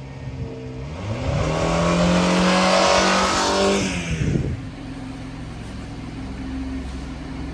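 1995 Subaru Sambar kei truck's 660 cc four-cylinder engine idling, revved up about a second in and held for about three seconds, then dropping back to a steady idle about halfway through.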